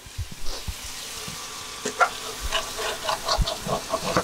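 Chicken liver pieces in masala sizzling in a frying pan while a spatula stirs them, with a run of short scrapes and clicks against the pan from about two seconds in.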